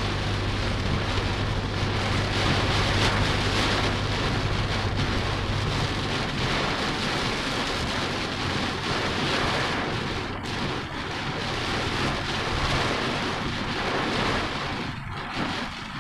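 Heavy rain falling steadily, with a steady low hum underneath that stops about six seconds in.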